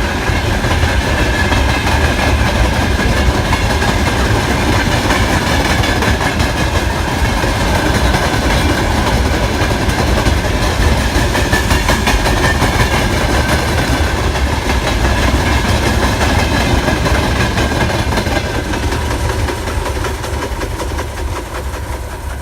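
Freight train wagons rolling past, their wheels clattering over the rail joints, getting quieter over the last few seconds.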